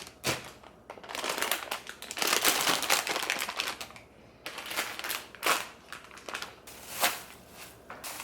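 Plastic produce bags and packaging crinkling and rustling as vegetables are taken out and handled, in uneven bursts with a few sharp knocks in the second half.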